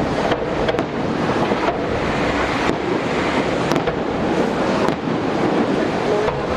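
Aerial fireworks going off in a continuous barrage: dense crackling and explosions that blend into a steady roar, with a few sharper cracks standing out.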